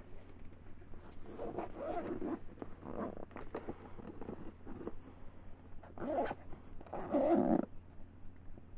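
Binoculars being unpacked from their box: rustling and clicking of packaging and handling. There are a few short muffled sounds from a voice, the loudest near the end.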